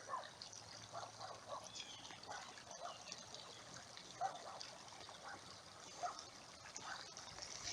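Faint outdoor ambience with scattered short chirps over a soft background hiss.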